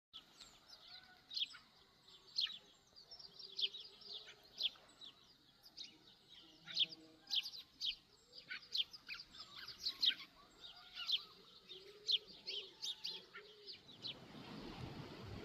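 Several songbirds chirping and calling in quick, sharp notes. About fourteen seconds in, the birdsong stops and a steady hiss takes over.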